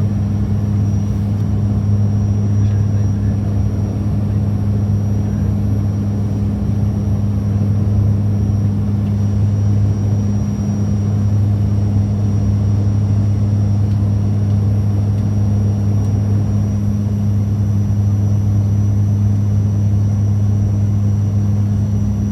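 Cabin drone of a Dash 8-400 turboprop airliner on approach: steady propeller hum with two low tones over engine and airflow rumble, unchanging throughout.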